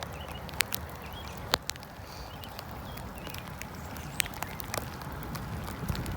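Bicycle riding on a wet road: steady tyre and wind noise with a few scattered sharp clicks and knocks from the bike.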